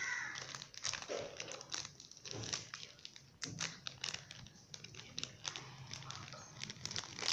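Plastic packaging crinkling and rustling as a slime package is opened by hand, with irregular small clicks and crackles.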